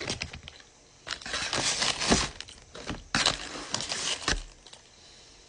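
Paper burger wrapper crinkling as it is unwrapped and handled, in two bursts of rustling separated by a short pause.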